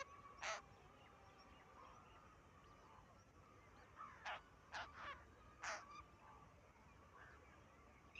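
Long-tailed shrike giving short, harsh, rasping calls: one about half a second in, then five in quick succession a few seconds later.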